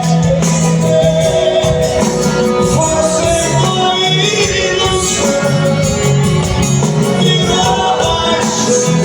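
Live band music from a sertanejo concert: a melody, likely sung, over a steady bass line and percussion.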